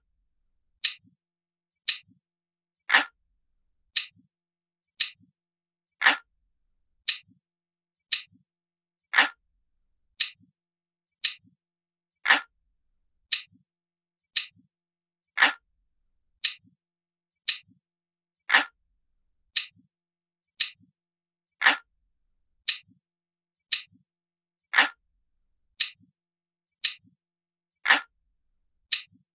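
Glass-like clock ticking sound effect, crisp and light, about one tick a second at a steady rate; every third tick is louder and fuller.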